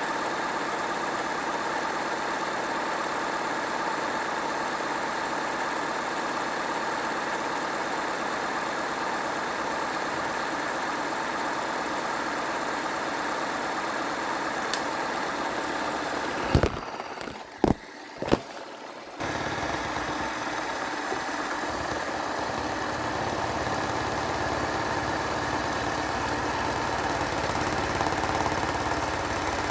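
Hoover washing machine running on a rinse-and-spin cycle: a steady motor whine and hum. About two-thirds of the way through it drops out briefly with a few sharp knocks, then a low rumble builds up again toward the end.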